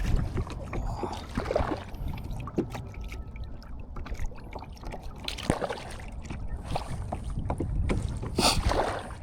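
Kayak moving on the water: irregular water splashes and light knocks, the strongest near the end, over a low wind rumble on the microphone.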